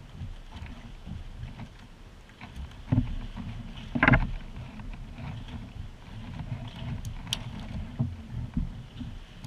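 Water sloshing and splashing around a kayak, with a sharper splash or knock about three seconds in and a louder one about four seconds in. A low rumble runs underneath.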